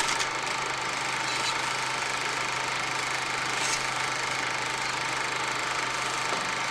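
Steady mechanical hum with a low, even drone and a few faint clicks, unchanging throughout.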